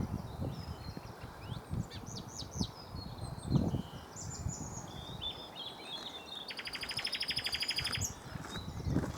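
Common nightingale singing: phrases of quick high whistled notes, then a fast rattling run of repeated notes that swells louder near the end. A low thump about a third of the way in.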